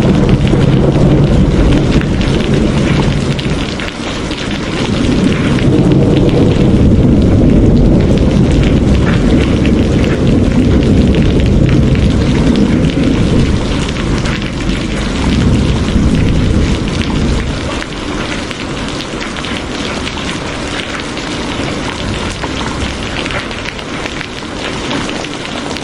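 Steady heavy rain with a deep rolling rumble of thunder underneath, which swells twice and dies away about two-thirds of the way through, leaving the rain alone.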